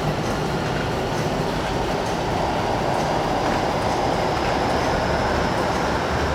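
MTR K-Train electric multiple unit running through the platform, a steady rolling rumble with a faint high whine over it.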